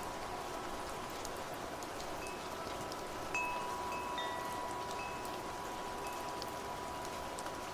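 Wind chimes ringing over steady rain: a handful of scattered strikes, the loudest about three seconds in, its tone ringing on for several seconds.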